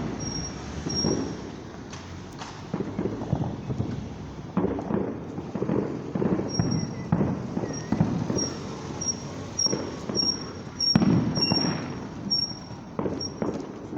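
Bonfire Night fireworks from several displays going off: a steady run of separate muffled bangs, the loudest about eleven seconds in.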